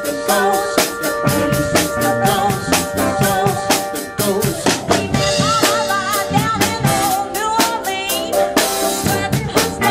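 Live band playing with a steady drum-kit beat of bass drum, snare and rimshots under sustained melodic lines.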